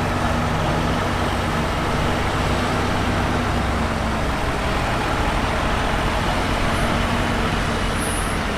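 Heavy diesel earthmoving machinery running steadily, a low engine hum under a constant noisy rumble.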